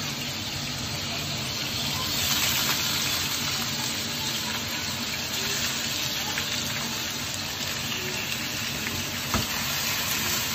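Octopus pieces sizzling as they fry in a wok, a steady hiss, with one sharp knock near the end.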